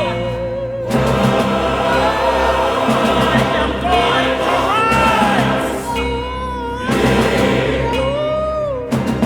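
Gospel-inflected choral music: a choir singing with a symphony orchestra, sustained low orchestral notes under sung lines that waver with vibrato and slide between pitches.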